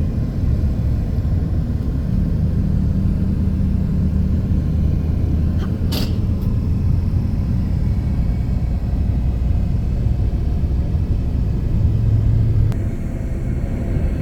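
Steady low rumble of a vehicle driving, heard from inside the cabin: engine hum and road noise, with a single sharp click about six seconds in.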